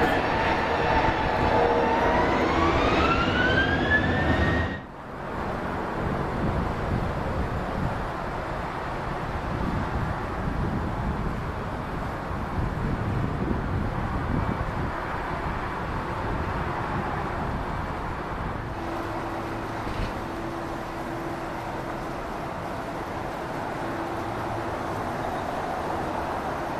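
Jet airliner engines at an airport: a Boeing 777-300ER's engines with a whine rising in pitch over the first few seconds, cut off abruptly, then a steady jet rumble. Near the end a steady low engine tone comes in.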